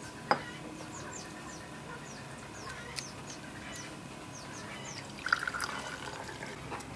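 Birds chirping in short, repeated falling notes, with a louder call about five seconds in.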